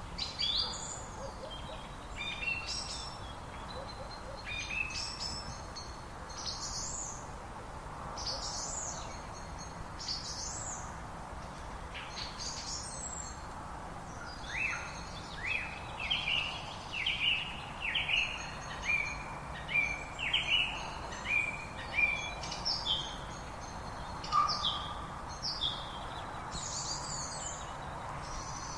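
Several wild birds chirping and singing over the steady rush of river water. About halfway through, one bird gives a quick run of short falling notes, roughly one and a half a second, for several seconds.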